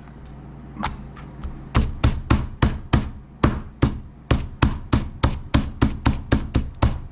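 Meat mallet pounding raw chicken cutlets flat on a board covered in plastic wrap. A few light taps, then a steady run of firm blows, about three a second.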